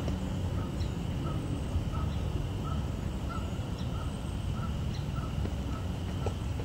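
A bird calling over and over, one short note about every two-thirds of a second at an even pace, over a steady low rumble.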